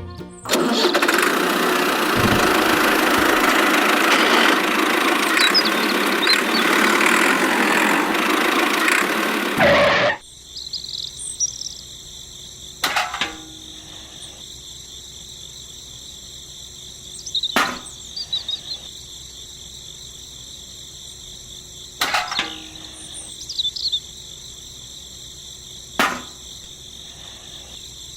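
A loud, even rushing noise that cuts off abruptly about ten seconds in. Then a steady high insect trill like crickets, with a sharp click every four or five seconds.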